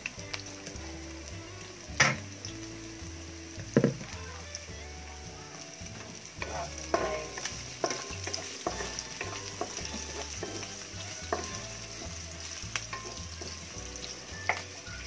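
Onion, ginger and garlic sizzling in hot oil in a frying pan while being stirred with a wooden spatula, with clicks of the spatula on the pan. Two sharp knocks, about two and four seconds in, are the loudest sounds.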